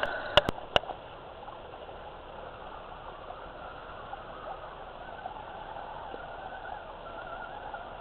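Small electric motors and gears of RC crawler trucks whining as they drive, preceded by three sharp clicks in the first second.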